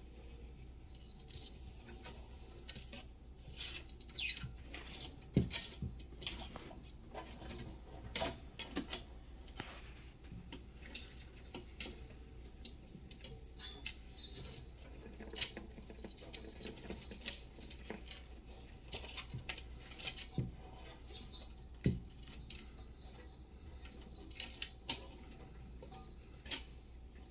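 Irregular light clicks, taps and scratches of reptiles moving about on bedding and enclosure surfaces, with two short hissing rustles about two seconds and thirteen seconds in, over a steady low hum.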